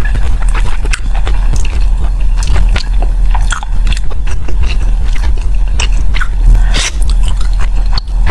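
Close-miked mouth chewing of sticky glutinous-rice zongzi with braised pork: wet smacking and many quick irregular clicks, over a steady low hum.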